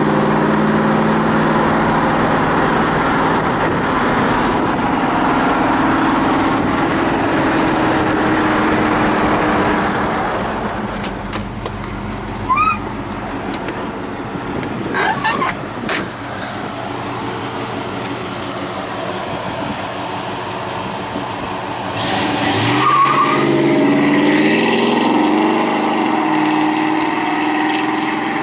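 1955 Chevrolet Bel Air's fuel-injected engine running steadily while cruising, then easing off and quieter for a while. About 23 seconds in it accelerates, rising in pitch and getting louder, and fades away near the end.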